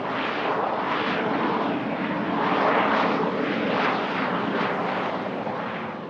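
Aircraft engines running loud and close as a plane passes on the runway. The rushing engine noise swells to a peak about halfway through and fades near the end.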